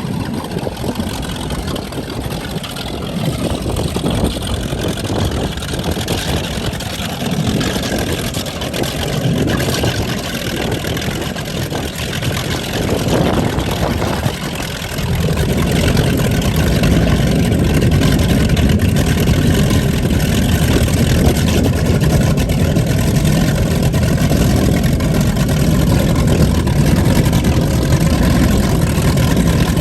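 Cigarette 38 Top Gun offshore powerboat's engines rumbling at low speed; about halfway through the rumble gets louder, deeper and steadier.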